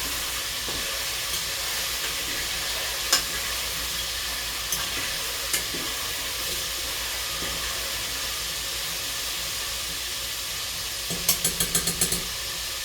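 Chicken drumettes deep-frying in hot oil: a steady sizzle with scattered sharp pops, and a quick run of about six clicks near the end.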